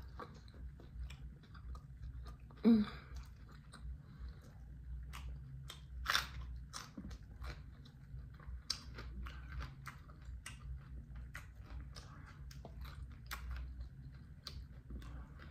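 A person chewing a mouthful of romaine lettuce taco wrap with ground turkey and raw vegetables, close to the microphone: many small crunches and clicks of the lettuce and vegetables being bitten down. There is a short vocal sound about three seconds in.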